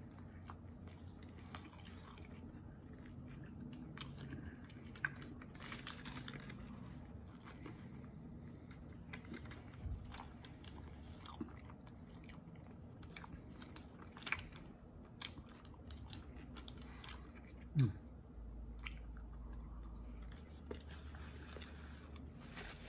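A man biting into and chewing a breakfast burrito close to the microphone: soft, irregular clicks and crunches of chewing. Late on there is one short falling squeak.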